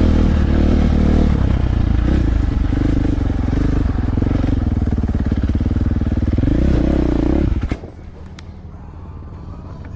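Dirt bike engine running hard, its pitch rising and falling with the throttle. It cuts off abruptly about three-quarters of the way through, leaving a much quieter steady sound.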